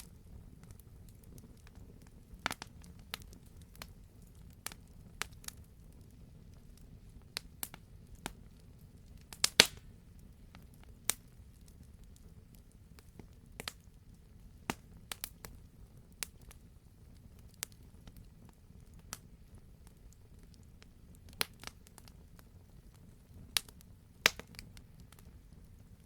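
Wood fire crackling in a fireplace: irregular sharp pops and snaps, a few seconds apart, over a low steady rumble. The loudest pop comes about a third of the way in, with another strong one near the end.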